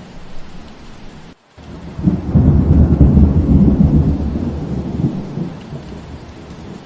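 Steady rain with a deep rumble of thunder that swells about two seconds in and fades over the next three seconds. Just before the thunder the whole sound drops out for a moment.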